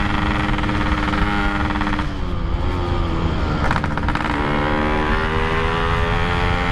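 Yamaha RX-King two-stroke single-cylinder engine, bored out to 175cc and ported, running under way. Its pitch drops about two seconds in as the throttle eases, with a short rattle just before four seconds, then climbs again as it pulls away.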